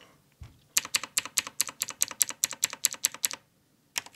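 Blue mechanical keyboard switches, lubed with household hand cream, Vaseline and machine oil, clicking in a rapid run of key presses, about seven a second. The run stops about three and a half seconds in and starts again just before the end.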